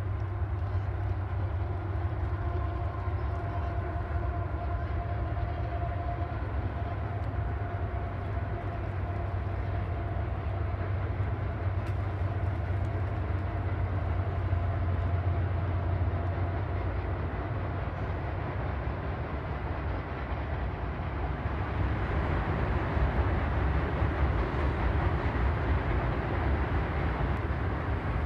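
A train running past on the tracks: a steady low rumble with faint steady whining tones over it in the first half, turning louder and noisier from about three-quarters of the way in.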